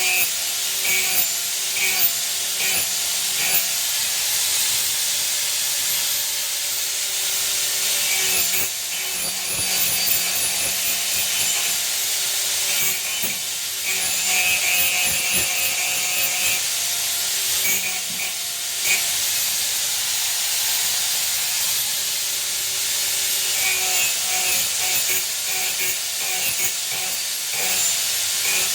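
A spark-throwing metalworking tool working on the truck part, making a steady, harsh hiss that breaks off briefly about 9, 13 and 19 seconds in.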